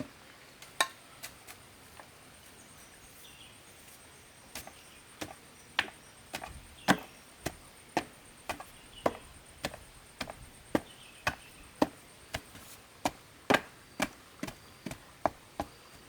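Repeated sharp chopping strikes of a tool on bamboo or wood: three at first, then after a pause of a few seconds a steady run of strikes a little under two a second.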